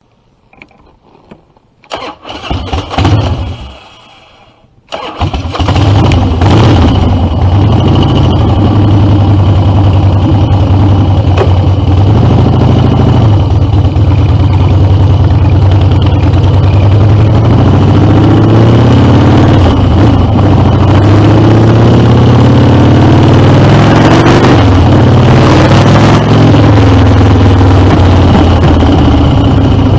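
Harley-Davidson Dyna V-twin with Screamin' Eagle exhaust being started: a short burst of cranking about two seconds in, a pause, then the engine catches about five seconds in and runs loud and steady. Later its revs rise and fall a few times.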